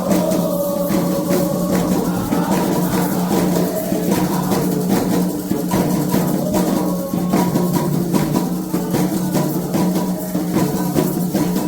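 Candomblé ritual music: atabaque hand drums and shaken and struck percussion beating a steady, dense rhythm, with voices singing a chant over it.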